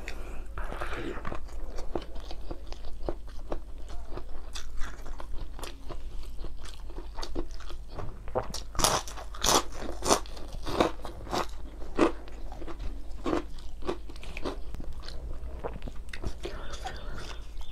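Close-miked chewing and crunching of mouthfuls of nasi Padang rice and side dishes eaten by hand, a steady run of small bites and crunches with a cluster of louder ones about nine seconds in.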